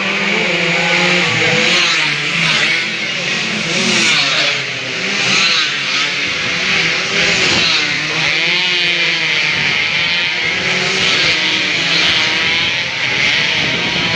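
Several two-stroke 150 cc sport underbone motorcycles running hard at high revs, their engine notes rising and falling over one another without a break.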